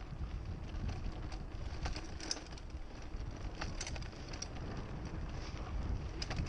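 Mountain bike riding over a dirt trail: a steady low rumble of wind buffeting the action camera's microphone and tyres on the ground, with scattered sharp clicks and rattles from the bike over bumps, most around two seconds in and between three and a half and four and a half seconds in.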